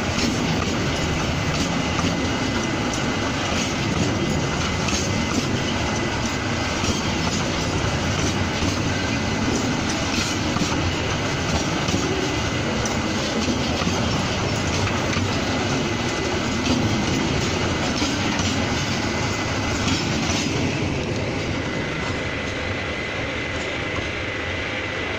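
Railway tank wagons of a Pertamina fuel train rolling past close by over a turnout: steady rumble of steel wheels on rail with dense clatter as the wheels cross the joints and switch, and a thin steady high squeal. The noise eases slightly near the end as the last wagon passes.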